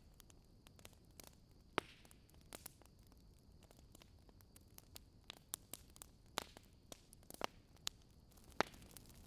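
Campfire crackling: sharp pops and snaps of burning wood at irregular intervals, a few louder ones standing out, over a faint steady hiss.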